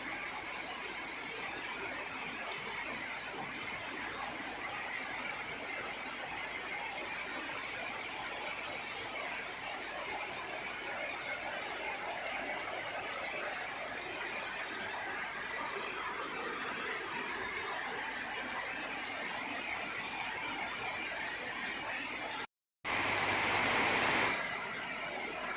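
Steady rainfall, an even hiss. About 22 seconds in, the sound cuts out for a split second and comes back louder for about two seconds before settling to its earlier level.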